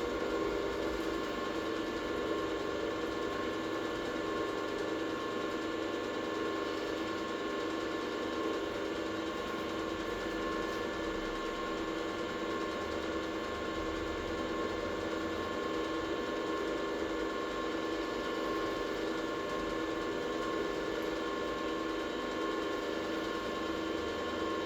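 A workshop machine running at a steady speed: a constant mechanical hum with several steady tones that holds unchanged throughout.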